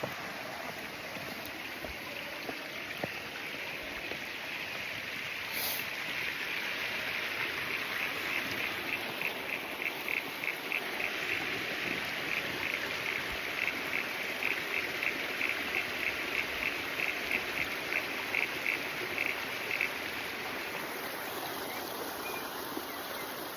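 Outdoor ambience: a steady wash of noise, with a long run of rapid, evenly repeated chirps, several a second, from about 8 seconds in until about 20 seconds in, from a small animal such as a frog, insect or bird.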